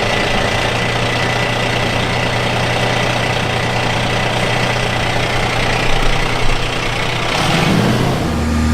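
An engine running steadily at idle. About seven seconds in, the hum changes to a different, steadier low pitch.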